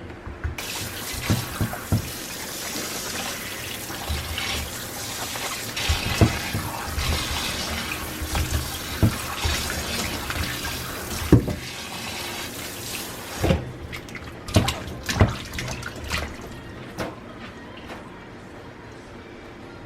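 Tap water running into a kitchen sink, with knocks and clunks of things being handled under it; the water shuts off about two-thirds of the way through, leaving a few more clunks.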